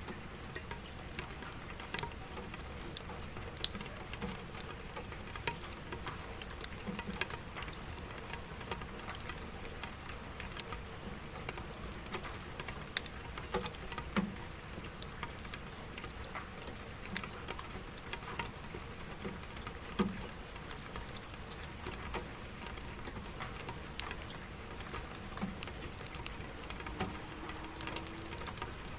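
Steady rain falling, an even hiss with many irregular, close drops pattering and ticking on a surface.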